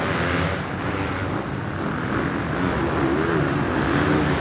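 Several motocross bikes' engines running together on the track, revving and changing pitch as they race.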